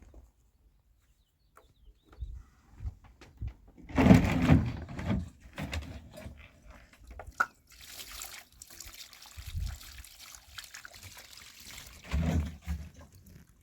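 Water being poured and splashing in irregular bursts, with a steadier trickle in between.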